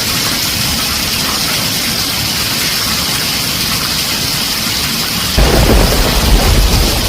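Heavy rain drumming steadily on a tin roof; about five seconds in, a loud rumble of thunder breaks in and rolls on.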